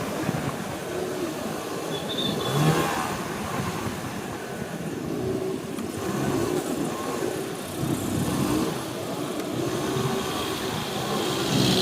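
Motorcycle engine running on the move, its pitch rising and falling as it speeds up and slows, over steady road and traffic noise.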